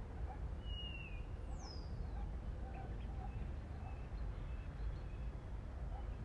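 Small birds singing and calling: a short whistle about a second in, then a high whistle that slides steeply down, with scattered short chirps. A steady low rumble runs beneath.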